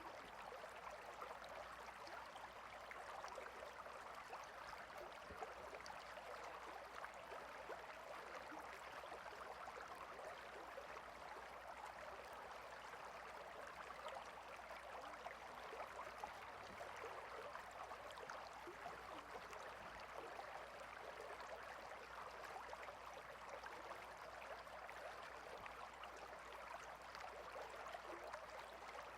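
Small stream flowing, a faint, steady babble of running water.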